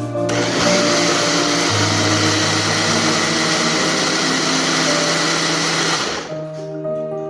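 Countertop blender running for about six seconds, mixing liquid cake batter of eggs, sugar, oil and milk, then cutting off abruptly. Background music with sustained notes plays throughout.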